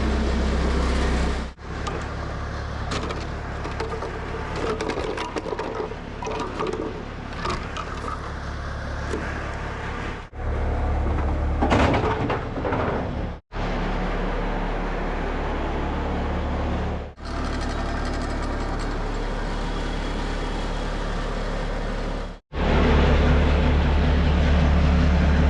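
Bobcat skid steer's diesel engine running steadily just after a cold start, heard in several short cuts, with scattered clanks and knocks in some of them.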